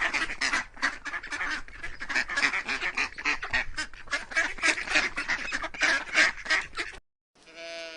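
A flock of domestic waterfowl calling loudly over one another in a rapid, continuous clamour of short quacks and honks. About seven seconds in the clamour cuts off abruptly, and after a short gap a single long, steady-pitched call begins.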